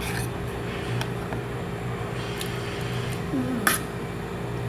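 A person chewing food up close, with a few sharp mouth clicks and smacks, the loudest about three and a half seconds in, over a steady low hum.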